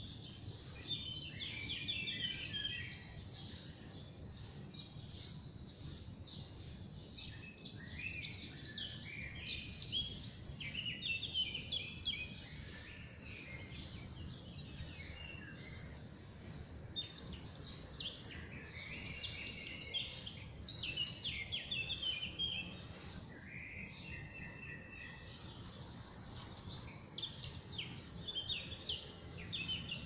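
Songbirds singing, a busy run of high chirps and quick trills with hardly a pause, over a steady low background rumble.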